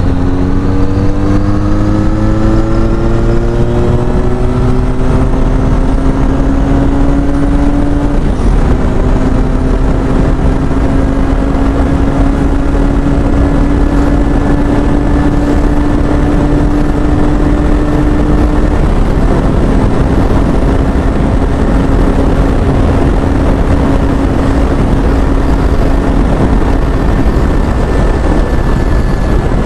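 Benelli Leoncino 500 parallel-twin engine with an aftermarket exhaust, running hard under load at speed. Its note climbs steadily for about eight seconds, then holds nearly level with small dips, over loud wind rush.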